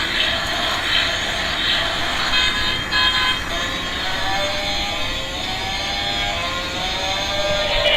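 Electronic sound effects from a toy vehicle: pitched, synthesised tones, some gliding upward in the second half.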